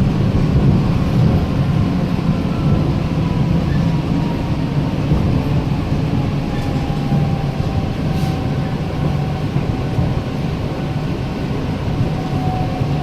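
Mitsubishi Crystal Mover automated people mover running on its rubber tyres, heard from inside the car: a steady low rumble with a faint whine slowly falling in pitch as the train slows.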